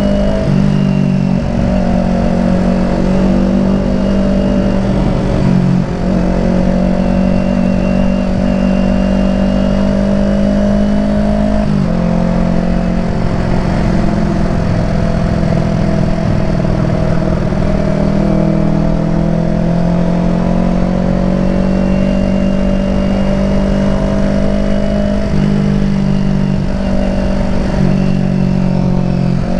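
Kawasaki Ninja 250 parallel-twin engine and exhaust running on the move. Its pitch drifts slowly and steps abruptly a few times, with a sharp break about twelve seconds in.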